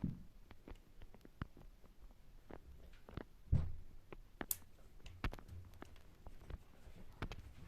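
Scattered light clicks and taps of household objects being handled, with one heavier knock about three and a half seconds in and a brief high squeak a second later.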